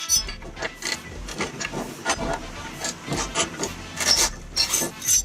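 Irregular clicks, knocks and scrapes of 2x4 pine boards and tools being handled during workbench assembly.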